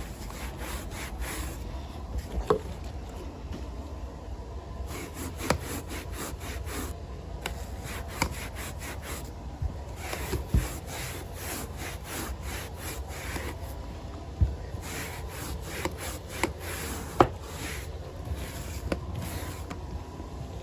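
Stiff bristles scrubbing carpet pile in repeated back-and-forth strokes, a scratchy rubbing about once or twice a second, with a few sharper knocks.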